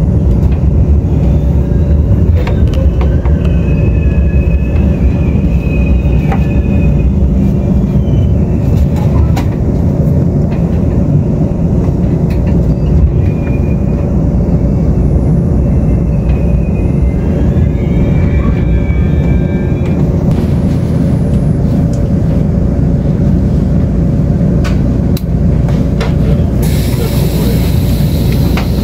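Steady low rumble of a Tze-Chiang express train running at speed, heard inside the passenger car, with scattered clicks from the wheels and rails. Faint high squeals come twice, and a burst of hiss comes near the end.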